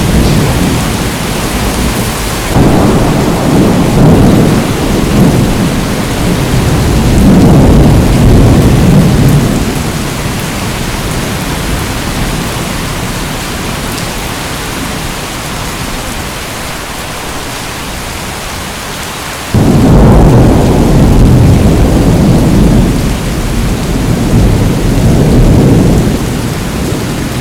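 Steady rain with two long rolls of thunder, the first starting a few seconds in and the second about two-thirds of the way through, each rumbling for several seconds.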